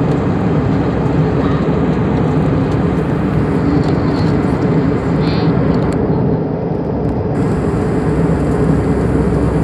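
Airliner cabin noise in flight: a loud, steady rushing drone of engines and airflow.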